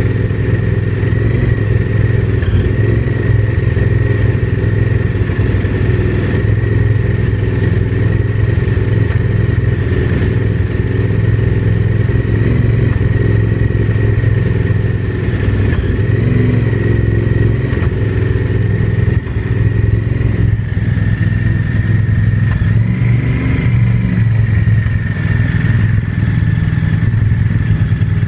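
Honda VTR1000's V-twin engine running steadily at a constant speed with a knocking noise, the fault being shown; a steady high whine sits over it.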